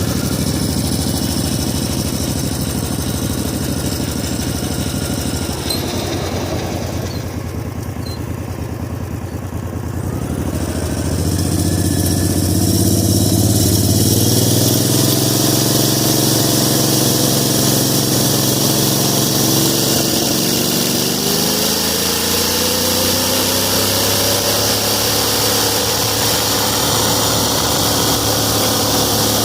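18 hp V-twin minibike engine running, dropping lower and quieter about a third of the way in, then rising in pitch as it is revved up, twice.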